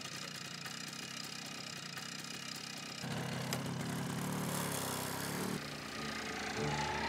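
Motorcycle engine idling steadily, then running louder from about three seconds in as the bike pulls away with a passenger aboard.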